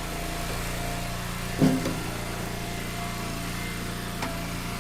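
Log splitter's small gas engine running steadily, with one short louder sound about a second and a half in and a faint knock near the end.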